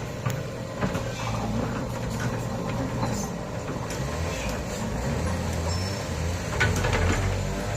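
Excavator engine running steadily, with a few short knocks and clanks; it gets louder about seven seconds in.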